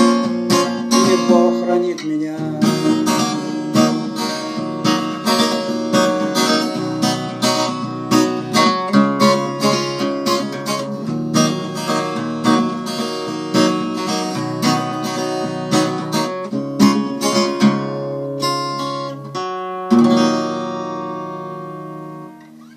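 Acoustic guitar strummed in a steady rhythm as the closing bars of a song, ending with a final chord about twenty seconds in that rings and fades away.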